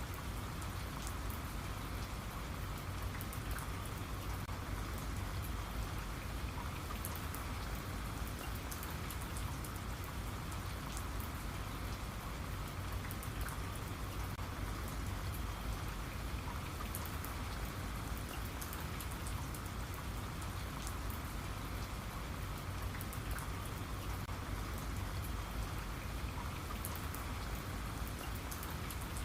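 Steady rain falling, with a constant hiss and many fine drop patters on a surface over a low rumble.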